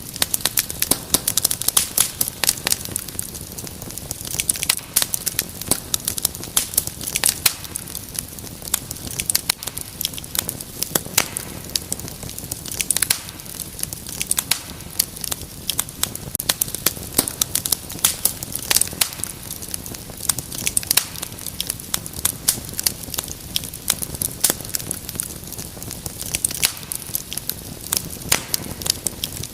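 Wood fire crackling steadily in a fireplace, with dense, irregular sharp pops and snaps over a soft hiss.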